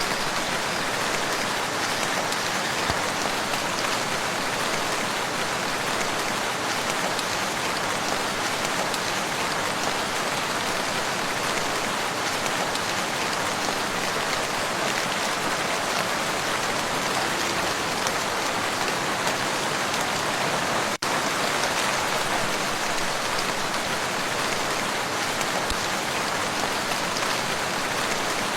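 Steady rain falling on a lake, an even, dense hiss of drops. The sound breaks off for an instant about 21 seconds in.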